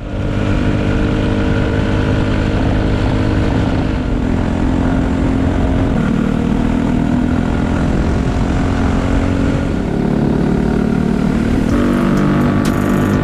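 Go-kart's Predator 212cc single-cylinder four-stroke engine running hard at speed, its pitch dipping and rising a little through the lap. A few short clicks come near the end.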